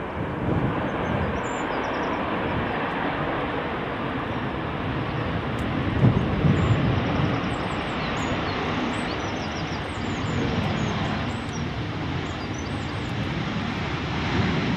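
Jet airliner engine noise, a steady rushing sound as an arriving aircraft lands and rolls out on the runway. Small birds chirp faintly above it.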